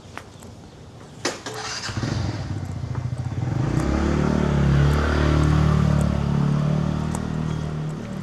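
A motorcycle engine passing close by, growing louder over a few seconds and then fading, after a single sharp knock about a second in.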